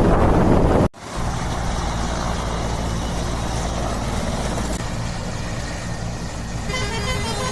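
Wind buffeting the microphone, cut off suddenly about a second in, followed by an engine running steadily with a low hum.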